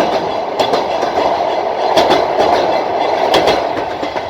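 Passenger train carriage running along the track: a steady rumble of wheels on rail, with a sharp clack roughly every second and a half as the wheels cross rail joints.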